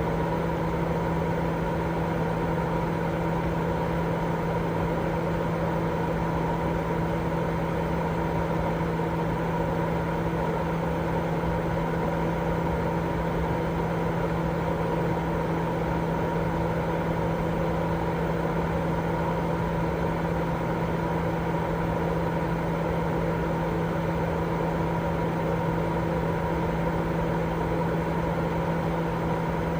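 Continuous baby-sleep white noise: an even, unchanging hiss weighted toward low pitches, with a steady low hum running through it.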